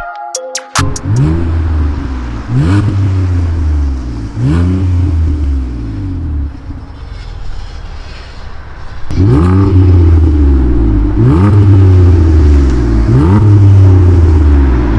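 Ford Explorer engine through a custom-built exhaust with a controllable valve, idling and blipped in short revs, each rising and then falling in pitch. The exhaust gets clearly louder from about nine seconds in.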